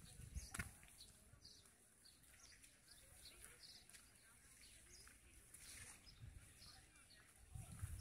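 Faint outdoor street ambience with small birds chirping now and then.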